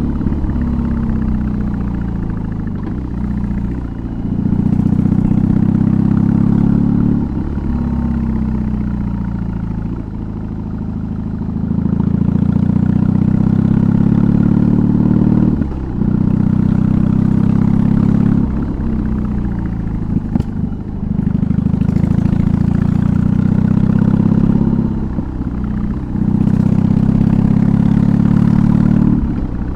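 BMW R18's 1802 cc boxer twin running through an aftermarket exhaust while riding. The engine note falls in places and holds steady in others, broken by about ten brief sharp dips as gears change.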